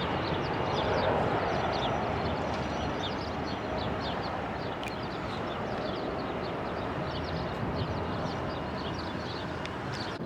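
Jet airliner's engine noise slowly fading as it moves away, with small birds chirping throughout.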